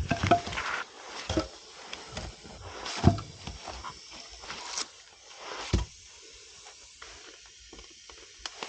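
Firewood being handled: a handful of irregular wooden knocks and clatters, spaced a second or two apart, fewer and quieter toward the end.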